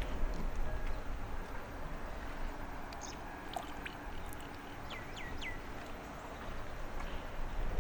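Small birds chirping over a steady low outdoor rumble: a few short high calls, then three quick falling notes in a row about five seconds in.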